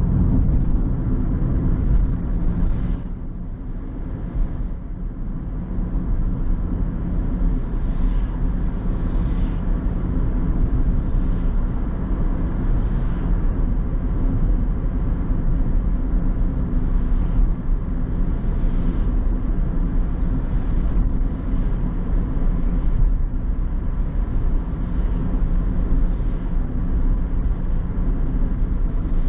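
A car being driven, with steady engine hum and road noise throughout. The noise drops for a few seconds, about three seconds in.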